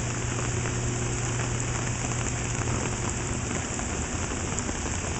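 Steady rain falling, with many small drops ticking on an umbrella held overhead.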